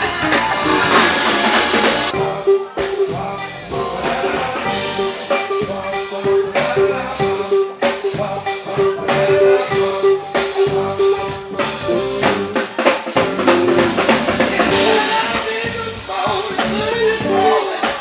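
A band playing with a drum kit keeping a steady beat, and a sustained note held through the middle stretch.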